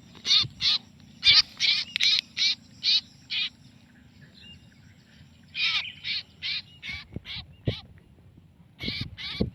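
Caught kapas kemiri birds (a local Malay bird name) calling loudly: short, wavering, high calls about two a second, with a quieter pause in the middle before the calling starts again.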